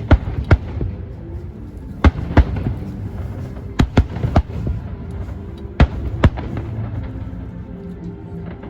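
Fireworks bursting: about ten sharp bangs at irregular intervals, several in quick pairs, over background music.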